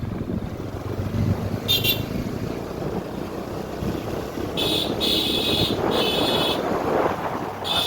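Wind buffeting the microphone and road noise while riding a bike. A horn gives a short toot about two seconds in, then several longer honks in the second half.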